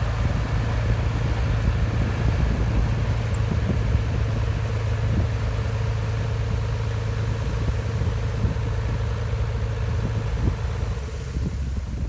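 Diesel engine of a Shantui DH17C2 bulldozer running steadily, a low drone that eases off a little near the end.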